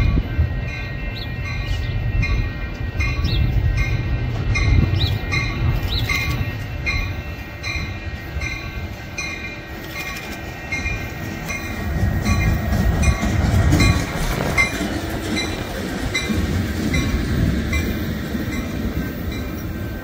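A train rumbling past on the rails, swelling near the middle, with a regular ringing repeating about two to three times a second.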